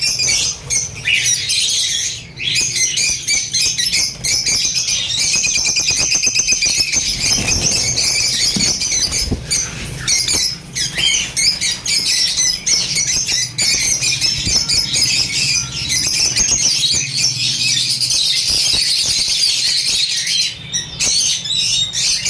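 A flock of caged pet birds chattering and squawking continuously, many high, shrill calls overlapping without a break.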